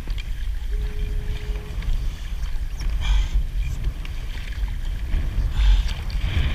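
Wind rumbling on the microphone over water lapping around a kayak, with two brief splashy washes about three seconds and near six seconds in. A short steady tone sounds for about a second early on.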